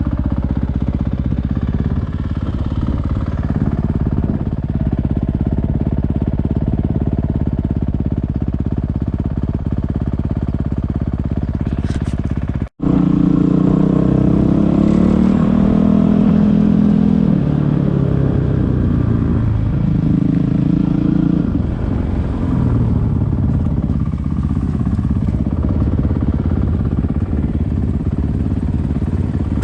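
Enduro motorcycle engine running under way, its pitch rising and falling with the throttle. The sound cuts out for an instant about 13 seconds in and comes back louder.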